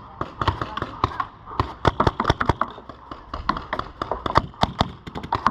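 Paintball markers firing: a string of sharp, irregular pops, some in quick runs of two or three.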